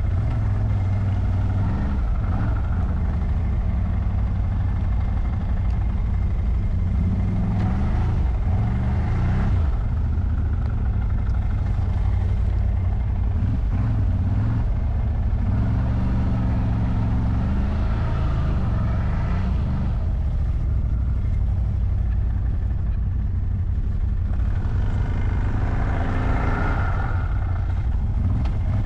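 CFMoto CForce 1000 ATV's V-twin engine running continuously under load, its revs rising and falling several times as it climbs through snow.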